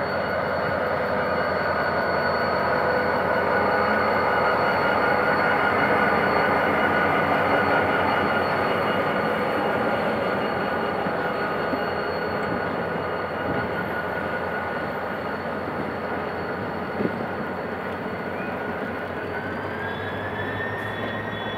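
A GM GT22CW-2 diesel-electric locomotive pulls away with its passenger train, and the engine runs loudly as it passes. The coaches then roll over the crossing with a continuous rumble and a steady high wheel squeal that rises in pitch near the end.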